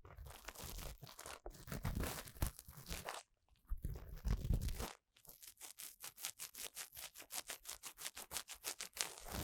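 Ear-cleaning tool scraping and rubbing inside the ear of a binaural dummy-head microphone. It starts as scratchy rubbing with low rumbling, and from about halfway it turns into a rapid, even run of short scratching strokes, several a second.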